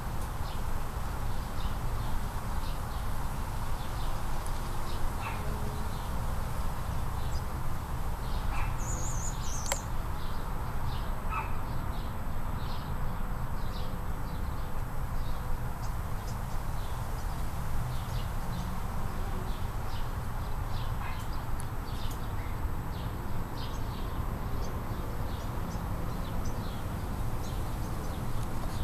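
Outdoor ambience: scattered short bird chirps, with a brighter call about nine seconds in, over a steady low rumble.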